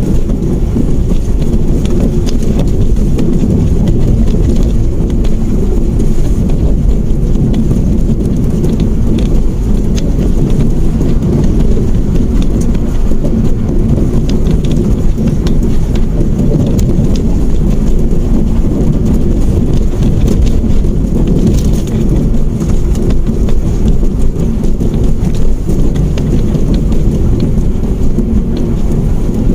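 Steady, loud low rumble of a small hatchback on the move, heard inside the cabin: road and engine noise with faint scattered ticks.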